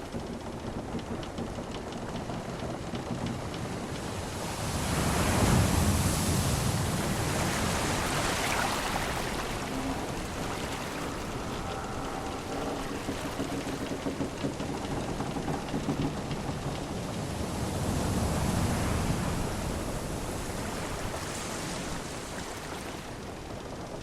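Sea waves washing in slow swells, loudest about five seconds in and again just before twenty seconds, with faint creaks of a wooden ship's timbers.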